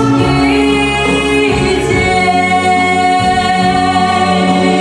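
A young woman sings a Russian pop ballad over a backing track, drawing out the word «короткие» into long held notes.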